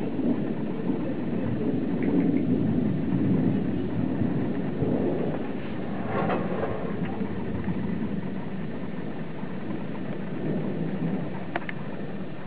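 Rolling thunder: a long, low rumble that swells during the first few seconds and slowly dies away.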